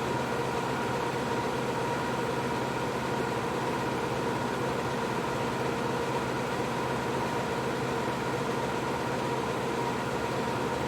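Bambu P1S 3D printer running: a steady whir of its cooling fans, with a constant high hum over it.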